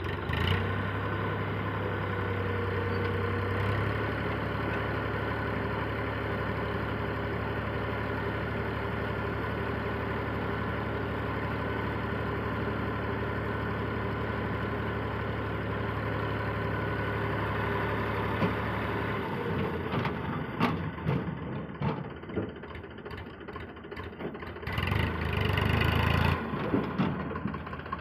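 Heavy diesel engine running steadily with a deep hum, then, from about two-thirds of the way in, irregular knocks and clanks with a brief louder surge of the engine near the end.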